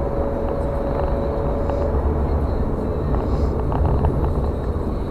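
Steady low engine and tyre rumble of a car driving on a road, heard from inside the car, with a faint steady whine that stops about two seconds in.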